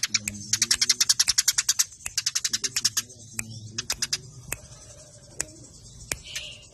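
Eurasian tree sparrows chirping in fast, dense runs of sharp chirps, the squabbling calls of sparrows fighting. The runs thin out to scattered single chirps in the second half.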